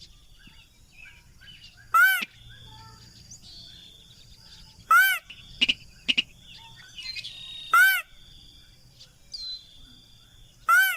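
Rail's lure call: a short, loud arched note with a ringing, harmonic-rich tone, repeated four times about every three seconds. Fainter chirps of other birds and a thin steady high insect-like tone run underneath.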